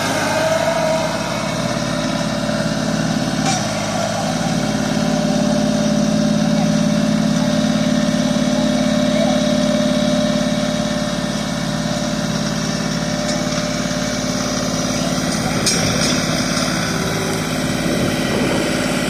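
Tractor engine running steadily, a little louder for several seconds in the middle.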